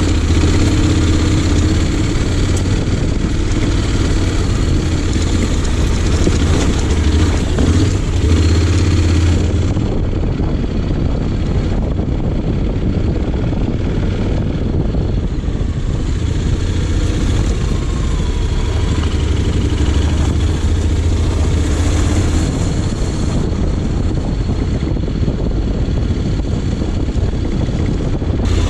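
Honda X-ADV 750's parallel-twin engine running steadily on the move.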